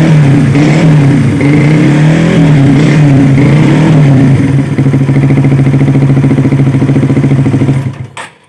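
Honda CBR150R single-cylinder engine breathing through a Suzuki Satria F muffler, revved up and down a few times, then settling to a steady pulsing idle. About eight seconds in it cuts off suddenly, and a couple of sharp clicks follow.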